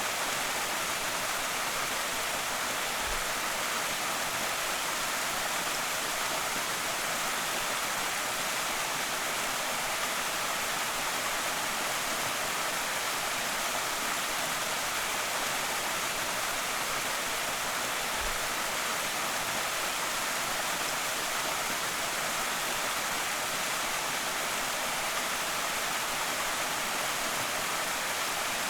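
A small creek waterfall: water pouring and splashing in a steady, even rush.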